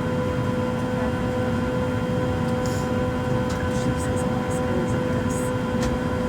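Steady airliner cabin drone: a low rumble with a constant hum from the cabin air and engines, and a few faint clicks.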